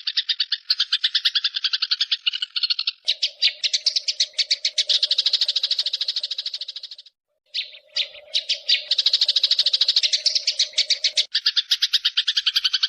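A rapid, even trill of about ten pulses a second, an animal call played as masteran for training white-rumped shamas. It breaks off briefly about seven seconds in, then carries on.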